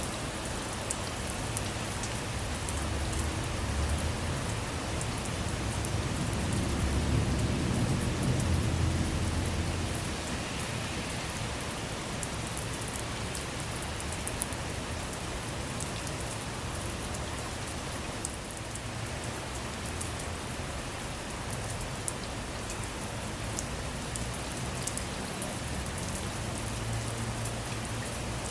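Steady rain falling on a car, with a low rumble of thunder that swells about three seconds in and fades away around ten seconds in.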